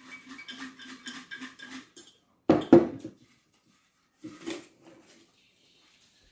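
Objects being handled on a table: about two seconds of quick, even rattling, then a loud knock, then a softer clatter.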